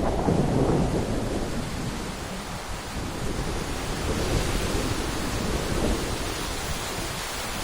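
Sea waves breaking on the shore in strong wind, with wind rumbling on the microphone. A wave's wash fades over the first second or two into a steady hiss of surf, swelling slightly again about halfway through.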